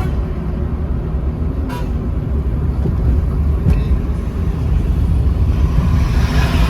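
Steady low rumble of a car driving on the road, engine and tyre noise, with a rush of noise swelling near the end.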